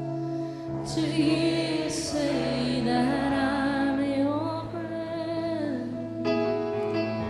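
Slow live worship music: steady held keyboard chords, with a woman's voice singing a long, wavering melodic line over them from about a second in until about six seconds in.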